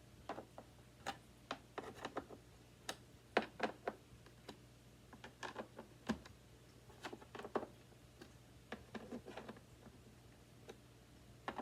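Irregular light clicks and taps of a screwdriver and the plastic housing of a Hoover WindTunnel 2 upright vacuum as screws are driven in by hand, over a faint steady low hum.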